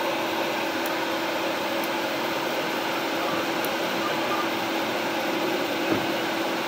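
Steady running hum of a vehicle engine idling, with an even background noise and one soft bump about six seconds in.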